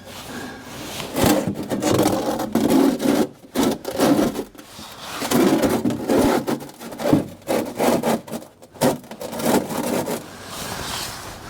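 Irregular scraping and rubbing strokes, each up to about a second long with short gaps between them, as hands and tools work under the tractor at the transmission drain plug.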